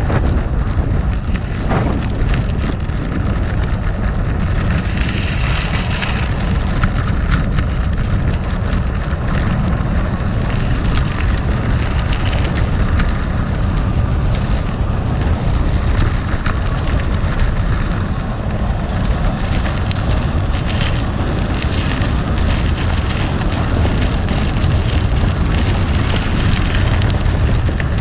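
Gravel bike riding over rough gravel: tyres crunching on loose stones, with small rattling clicks from the bike and a heavy rumble of wind on the microphone.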